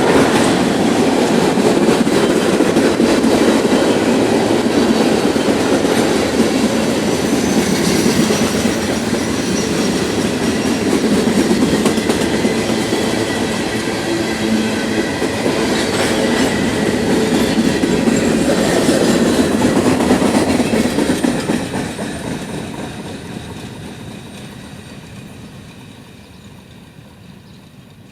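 Freight train cars rolling past on the rails, a steady clatter of wheels and rail joints with a faint high wheel squeal. About twenty seconds in, the sound begins to fade away as the train moves off.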